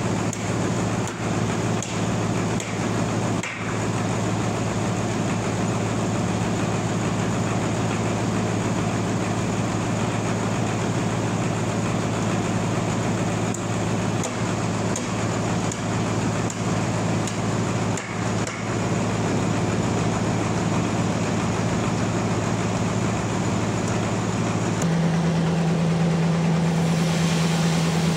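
Bandsaw sawmill's engine running steadily, with a few knocks in the first few seconds. About 25 seconds in, its note changes to a higher, steadier pitch.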